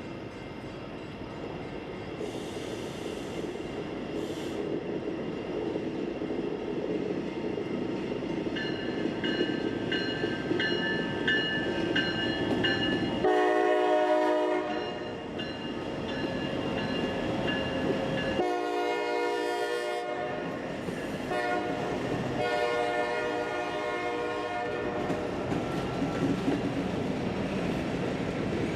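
Locomotive air horn sounding as a train approaches and passes, over the growing rumble and wheel clatter of the train. A repeating ringing tone comes first; then two long horn blasts, about a third and two thirds of the way in, followed by shorter broken blasts.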